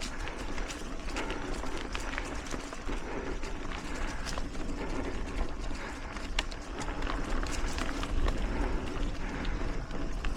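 Mountain bike rolling over dirt singletrack: steady tyre and trail noise with many scattered clicks and rattles, over a constant low rumble.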